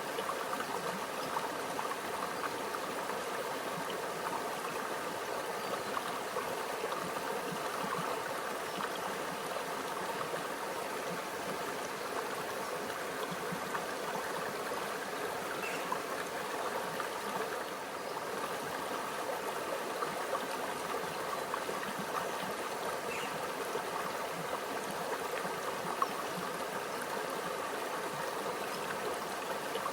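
A small stream flowing and trickling over stones, a steady babble of water with small scattered splashes.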